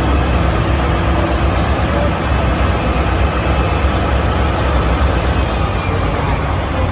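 Steady, loud low engine rumble with a rough noisy wash over it, like a vehicle running. It cuts in and cuts off abruptly.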